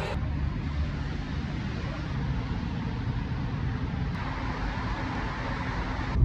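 Steady low rumble of a car on the road, engine and tyre noise.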